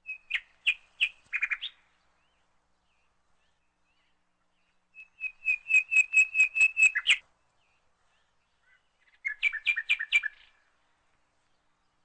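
A bird chirping in three short bursts of quick repeated whistled notes.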